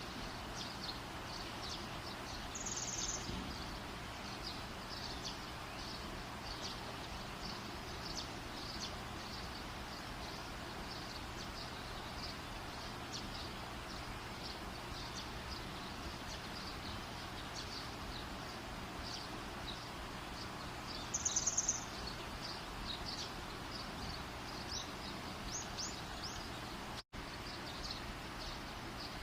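Wood fire burning with a steady hiss and many small, quick crackles throughout. Two brief louder, sharper high sounds stand out about 3 seconds and 21 seconds in, and the sound cuts out for an instant near the end.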